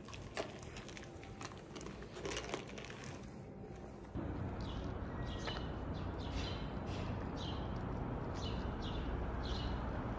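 A small bird chirping over and over, short falling chirps coming roughly once or twice a second over a steady low rumble like distant traffic. These begin after a cut about four seconds in; before that there are only scattered light clicks.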